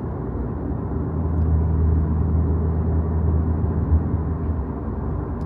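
Dodge Charger Hellcat Redeye's supercharged 6.2-litre Hemi V8 cruising, heard inside the cabin as a steady low drone under road noise. A brief thump about four seconds in.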